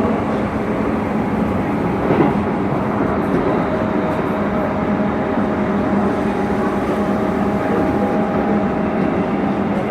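Hokuso Railway 9100-series train running between stations, heard from inside the front car: steady wheel-on-rail rumble with a steady hum, and a single knock about two seconds in.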